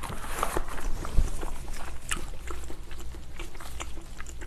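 Close-miked chewing of gelatinous spicy braised ox foot: soft wet mouth clicks and smacks, with a low thump about a second in.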